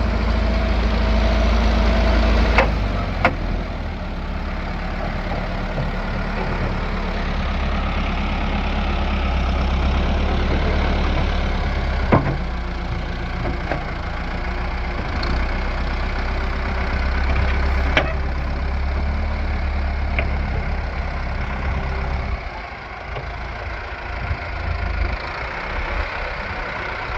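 A motor or engine running steadily with a low hum that cuts off about 22 seconds in, with a few sharp knocks along the way.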